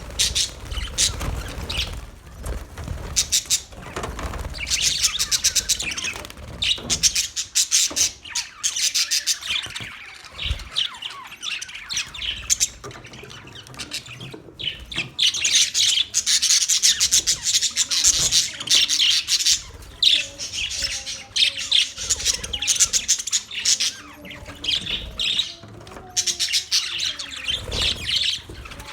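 Budgerigars chattering and chirping: fast runs of high warbling notes in bursts, with a thinner spell a little before halfway.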